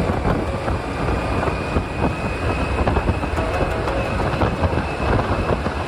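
Steady rumble of wind and road noise from a motorbike riding along a highway, with a faint high whine held throughout.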